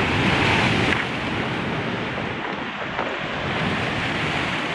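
Surf breaking and washing over shallow reef and concrete breakwater blocks, loudest in the first second and then a steady wash, with wind buffeting the microphone.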